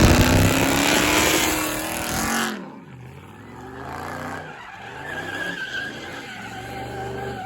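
A car at full throttle with its tyres squealing and skidding, as in a burnout or donut. It is loud for the first two and a half seconds, then drops suddenly to a fainter engine and a thin tyre squeal.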